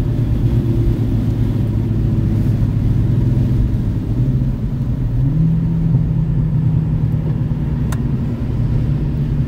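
Car engine heard from inside the cabin while driving on track, running steadily over a low road rumble; about halfway through the engine note steps up in pitch and holds at the higher revs.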